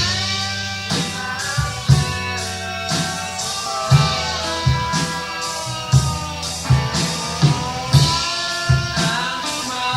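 Live rock band playing a slow song: sustained electric guitar lines that bend in pitch, over bass and a slow, steady drum beat.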